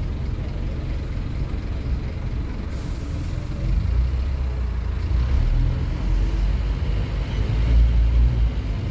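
Scania N230UD OmniCity bus's diesel engine running, its low rumble growing louder about four seconds in and swelling again near the end as the bus works under power.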